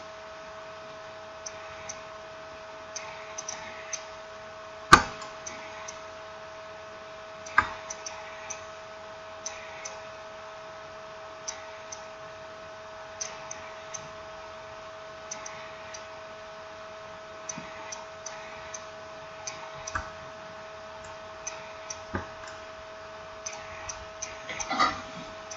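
Irregular small clicks and taps of tools and smartphone parts being handled during reassembly, with a couple of louder sharp knocks and a cluster of clicks near the end, over a steady electrical hum.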